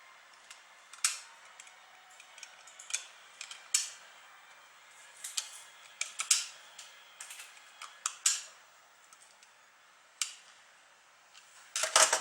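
Irregular small clicks and taps of hard parts and tools being handled while working on a computer power supply, with a louder clatter near the end.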